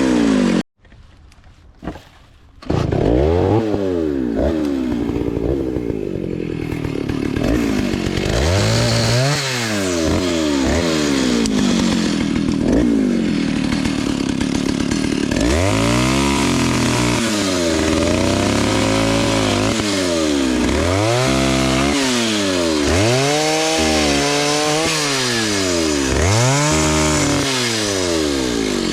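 Vintage Stihl S-10 56cc two-stroke chainsaw running, with a steadier stretch in the middle while cutting wood, then revved up and down repeatedly, about one rev every second and a half. The sound drops out briefly about a second in.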